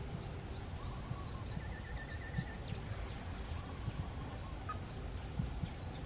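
Wild birds calling: scattered short high chirps, and a fast trill of about eight repeated notes starting about one and a half seconds in, over a steady low rumble.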